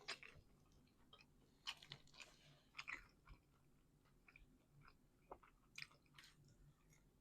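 Faint chewing of a person eating a calzone, with irregular soft mouth clicks and smacks.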